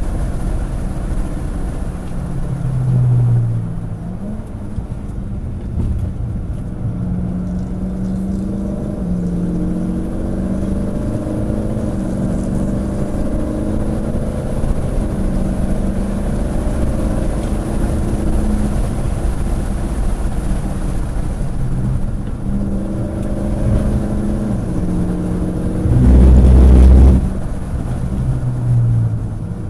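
Car engine running hard on a race track, its pitch climbing and dropping as it accelerates, shifts and slows, over steady road and wind noise. About three seconds before the end there is a loud low rumble lasting about a second.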